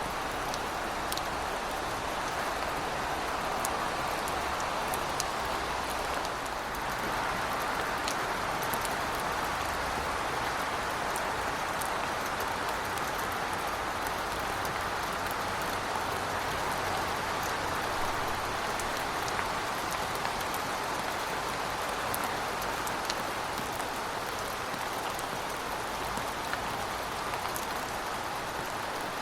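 Heavy rain falling steadily, a continuous hiss with scattered faint drop ticks over a low rumble.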